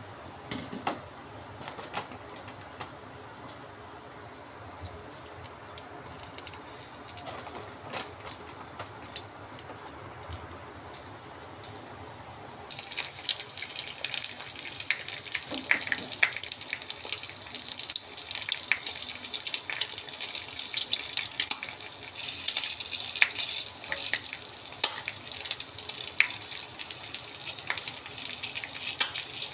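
Oil heating in a non-stick frying pan with a few faint crackles, then, about halfway through, a sudden loud sizzle as an egg and chicken nuggets fry in the hot oil. The frying goes on as a steady crackling hiss with many small spattering pops.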